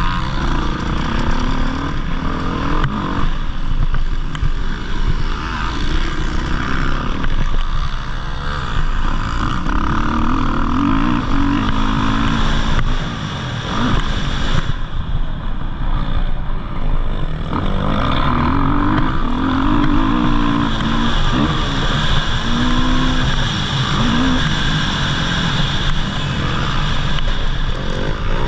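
Motocross dirt bike engines running hard, their pitch rising and falling again and again as the throttle is opened and closed.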